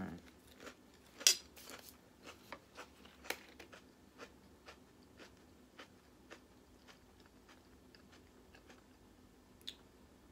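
Close-up chewing of crunchy Quest protein chips: a run of crisp crunches about two a second that grow fainter and sparser, after one loud sharp crack about a second in.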